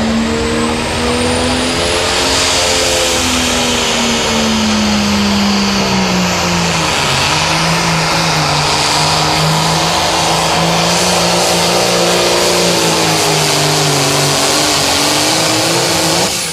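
A 7830 John Deere pulling tractor's turbocharged diesel engine running at full power under the load of the pulling sled. Its note rises briefly, then sags to a lower pitch as the sled bears down, and holds there. Near the end it falls away as the pull ends.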